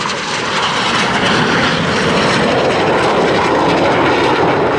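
Jet noise from Red Arrows BAE Hawk T1 jets, with Rolls-Royce Turbomeca Adour turbofans, flying a display pass; the noise is loud and steady.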